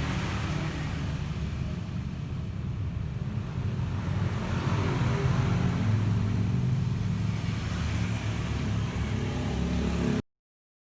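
Vespa LX i-get scooter's single-cylinder engine running steadily, getting louder from about four seconds in; the sound cuts off suddenly near the end.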